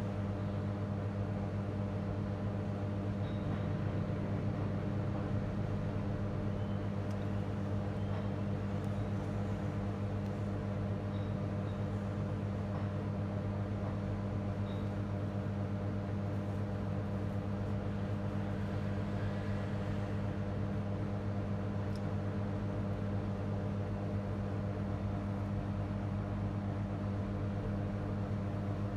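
A steady low machine hum with a few faint ticks.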